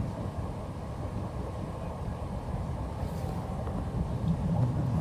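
Running noise of a Merseyrail electric train heard from inside the carriage: a steady low rumble that grows a little louder near the end.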